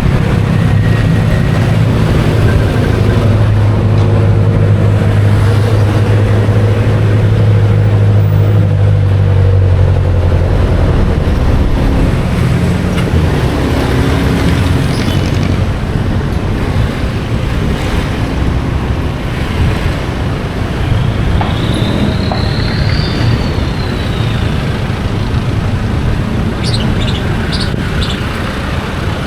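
Riding a motorcycle taxi through city traffic: the motorcycle's engine runs under loud road and wind noise, with passing traffic. A steady low engine hum dominates the first ten seconds or so, then gives way to a broader traffic rumble.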